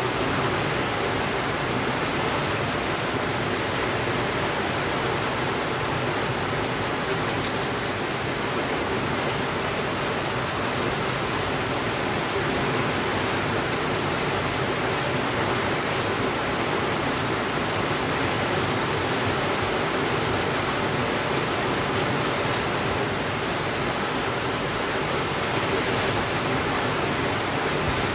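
Steady rainfall, an even hiss that does not change in level, with a few faint ticks.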